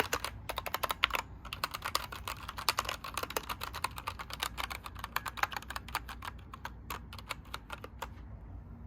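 Typing on a COX mechanical keyboard with Gateron Brown switches: a fast, continuous run of key clacks that thins out and stops shortly before the end.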